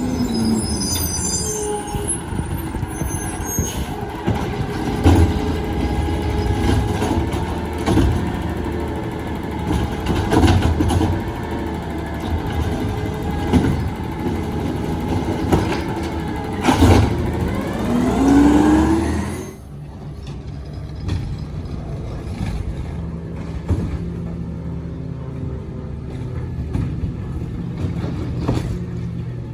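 Garbage truck working: its diesel engine runs under load with scattered knocks and clanks. A little past the middle the engine pitch climbs for about two seconds, then the sound drops off suddenly to a lower steady running.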